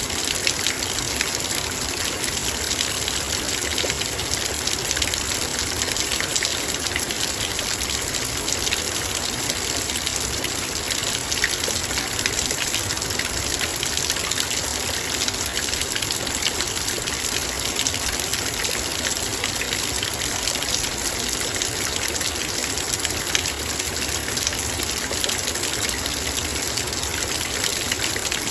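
Heavy rain falling steadily on a metal bowl: a dense, even patter of countless drop hits over a continuous hiss, with no letup.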